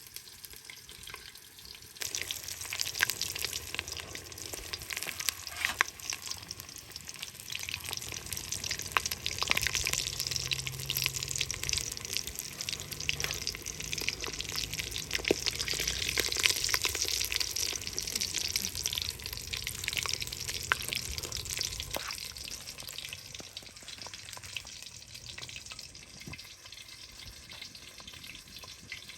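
Food frying in hot oil: a dense crackling sizzle that starts about two seconds in and eases off near the end.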